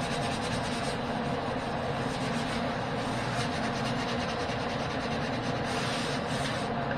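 Sanding of a joint-compound wall patch: a steady rubbing noise.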